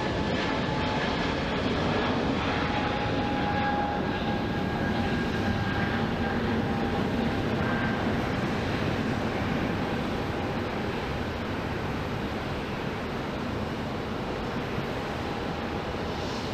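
Jet airliner engines running: a steady rumble with a faint high whine, slowly fading.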